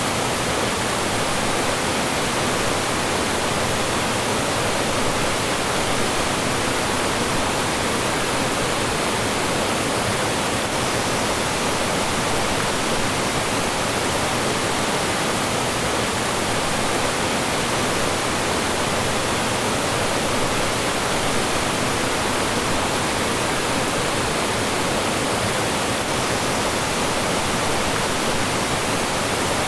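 Mountain stream rushing over rocks and small falls, a steady full rush of flowing and falling water.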